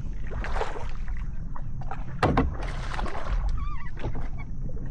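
Water sloshing and splashing against a kayak, in two rushing bursts, with a sharp knock on the hull about two seconds in and a low rumble of wind on the microphone throughout.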